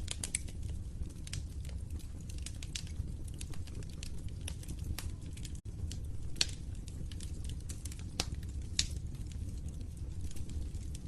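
Wood fire crackling in a fireplace: irregular sharp pops and snaps, a few louder than the rest, over a low steady rumble of flames. The sound cuts out for an instant a little past halfway.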